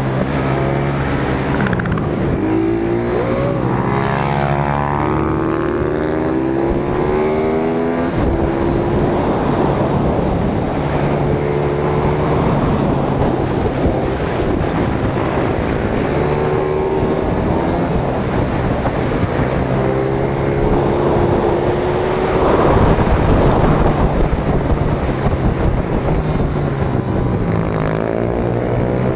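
Pit bike engine heard on board, running hard with its pitch rising and falling over and over as it accelerates and backs off around the track.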